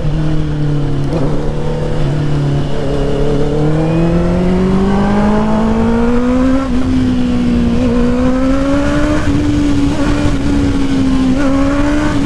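Honda CBR650R's inline-four engine through an aftermarket full exhaust with the dB killer fitted, running loud while riding. The pitch climbs steadily for several seconds, then holds fairly even with a couple of small, brief dips.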